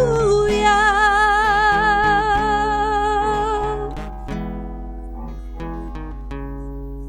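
A singer holds a long final note with vibrato over strummed acoustic guitar. The voice stops about four seconds in, and the guitar rings on and slowly fades.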